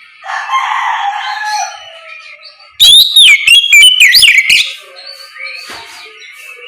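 Oriental magpie-robin singing a full, open 'ngeplong' song: a rough chattering phrase, then after a short pause a very loud run of sweeping whistled notes, followed by softer notes.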